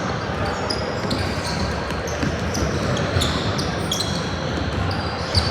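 Sneakers squeaking on a gym floor during a youth court game, with a ball bouncing and a murmur of voices echoing in the hall. A sharp thud comes near the end.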